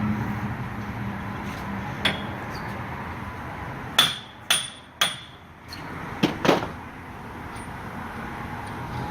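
Sharp metal-on-metal strikes from hand tools during work on the car's wheels. One comes about two seconds in, then three in quick succession, and two more close together near the end, each with a brief metallic ring.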